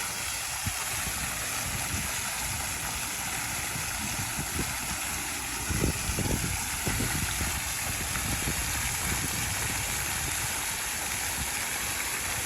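Steady rush of spraying, falling water from a park water feature, with a few dull low bumps about six seconds in.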